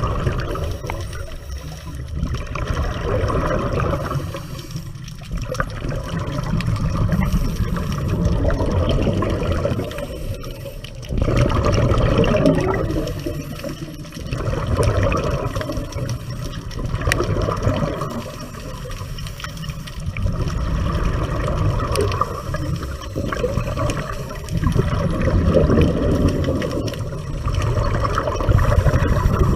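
Underwater scuba breathing through a regulator: exhaled bubbles burst and gurgle past the microphone, rising and falling roughly every four seconds with each breath.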